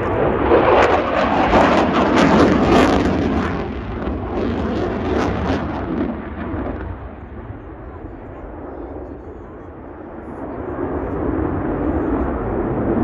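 Eurofighter Typhoon jet roaring past during a display, loud and crackling for the first few seconds. It fades away and then builds again near the end as the jet comes back round.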